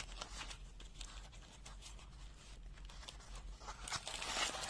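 Faint rustling and light clicks of a multimeter's paper box and its contents being handled, with a sharp click at the start and the rustling growing louder near the end.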